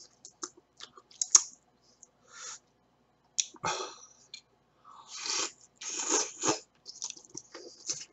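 A person chewing a mouthful of ramen noodles, with wet smacking mouth sounds coming in short, irregular bursts.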